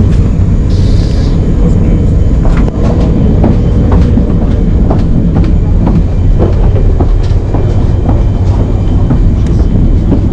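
Passenger train running at speed, heard from inside a carriage: a steady heavy low rumble from the wheels and running gear, with many light clicks and knocks scattered through it.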